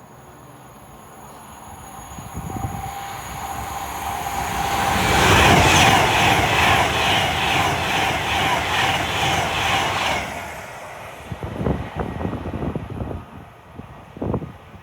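Passenger train passing through the station at speed: it rises out of the distance, passes for about five seconds with a rhythmic clatter of wheels on the rails, then quickly fades.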